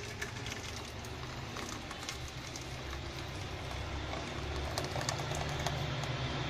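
Pureed mushroom mixture being poured and scraped from a blender jar into a soup pan: scattered light clinks and taps over a steady low hum.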